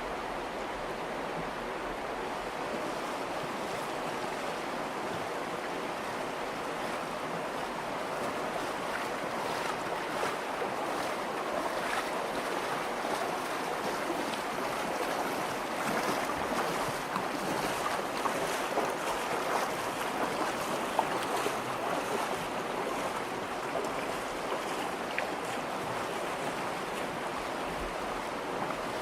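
Virgin River rushing steadily over rocks in a sandstone canyon, with a scatter of small splashes and clicks through the middle stretch.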